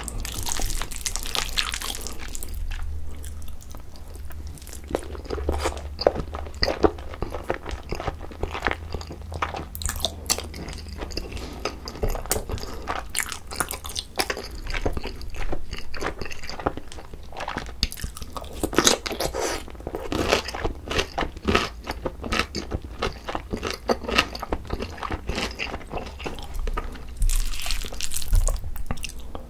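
Close-miked eating sounds: a person chewing and crunching mouthfuls of seasoned boneless chicken mixed with rice. Many sharp, irregular clicks and crackles of chewing run throughout.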